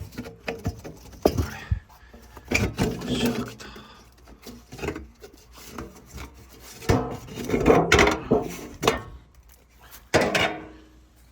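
Camping gear being handled and packed away: irregular wooden knocks, metal clinks of pots and utensils, and rustling, coming in several bursts.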